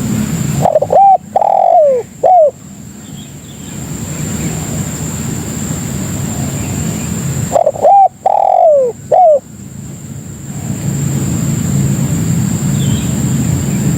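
Spotted dove (tekukur) cooing: two short three-note coo phrases about seven seconds apart. Underneath runs a steady low rumble and a thin, steady high whine.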